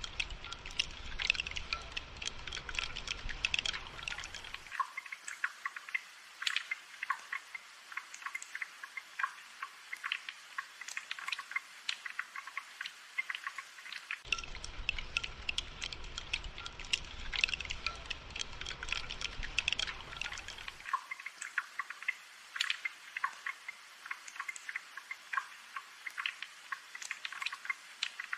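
Rain falling in many small, sharp drips and ticks. A low rumble sits underneath for the first few seconds, drops out, then returns in the middle and cuts off again.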